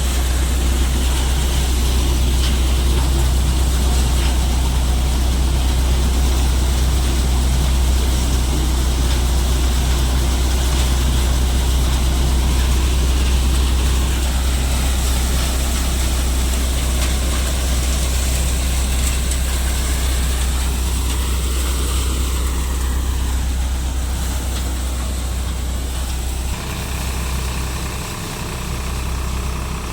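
Deutz-Fahr Agrolux 50 tractor engine running steadily while driving a multicrop thresher that is threshing mustard, heard as a loud, even low hum with the machine's noise above it. The sound changes a few seconds before the end.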